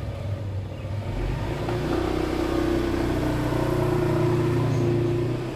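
An engine running steadily with a low hum, growing louder over the first couple of seconds and then holding.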